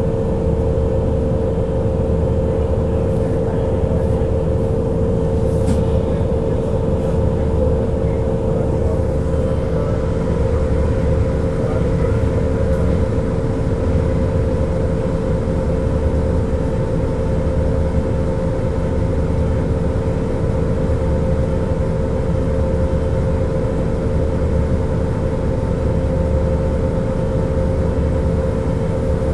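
Scania L94UB city bus running, a steady low rumble with a constant high whine over it that holds the same pitch throughout.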